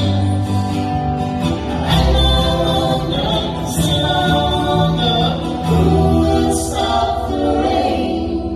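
Live band playing with several voices singing together in harmony over sustained chords and a steady bass line.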